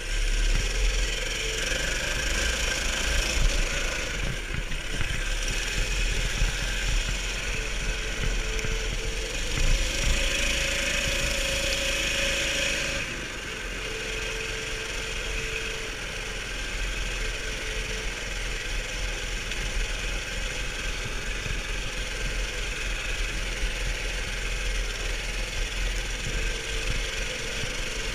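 Baja Warrior mini bike's small engine running steadily, with a heavy low rumble. About halfway through, a brighter hiss drops away and the sound settles slightly quieter.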